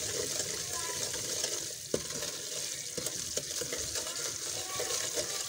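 Semolina sizzling as it roasts in oil in a karahi on a low flame, stirred and scraped round the pan with a wooden spatula. A few knocks of the spatula against the pan come a couple of seconds in.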